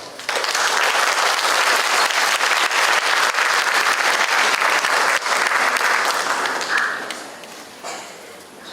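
Audience applauding, a dense steady clapping that breaks out just after the start and dies away over the last second or two.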